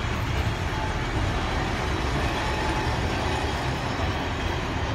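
Vintage passenger carriages of a heritage train rolling past on the track: steady wheel-on-rail running noise.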